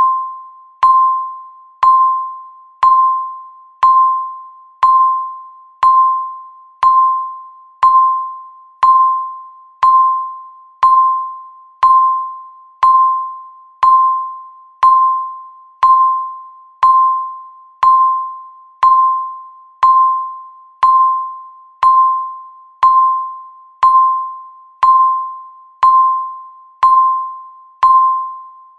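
Countdown timer's tick sound: a sharp, ringing electronic tone struck once a second, each dying away before the next.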